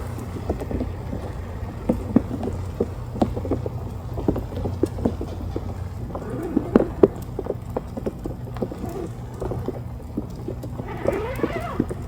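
Rain falling on a tent, with irregular drops tapping on the fabric over a steady low rumble. A short wavering pitched sound comes near the end.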